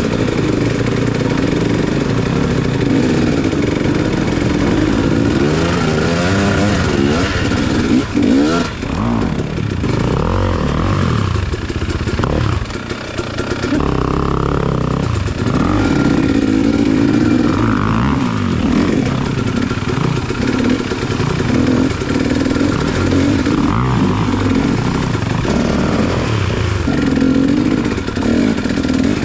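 Dirt bike engine being ridden off-road, its revs rising and falling with the throttle and easing off briefly twice in the first half.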